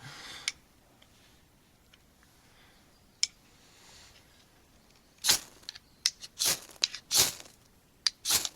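A ferrocerium rod being struck with a striker to light a bundle of hay: after a quiet stretch with one click, a run of short, sharp scraping rasps starts about five seconds in, with four strong strokes and smaller scrapes between them.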